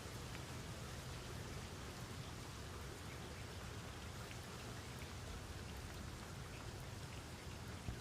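Steady rain falling, an even hiss with scattered individual drops ticking and a low rumble underneath.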